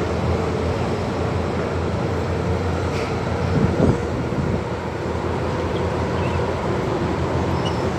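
MTR M-Train electric metro train running, heard from inside the car: a steady rumble of wheels on rail and running gear, with a short clunk about four seconds in.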